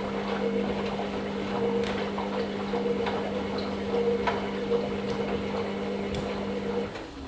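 Hoover Nextra HNL662 washing machine running at the start of a wash program: a steady motor hum with irregular light ticks. It stops about seven seconds in.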